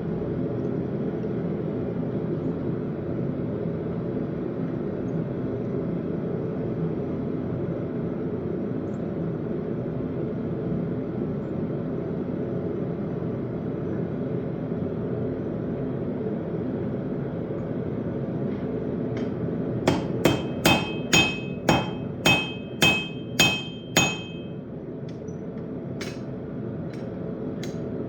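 A run of about nine ringing hammer blows on an anvil, roughly two a second, as a railroad knife is forged. A steady low rushing noise runs underneath.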